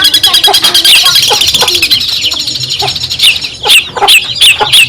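Long-tailed shrike (cendet) singing: a fast, harsh chattering run of notes, then from about three seconds in a string of loud sharp notes, each sweeping down in pitch, about two or three a second.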